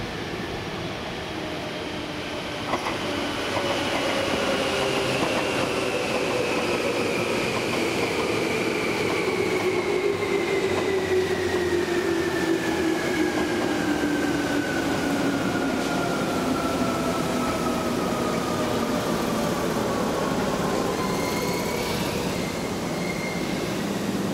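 Tobu 30000 series electric train pulling away along the track. Its motor whine is a long tone that falls slowly in pitch over most of the stretch as the train recedes, over a steady rumble of wheels on rail. There is a single click about three seconds in.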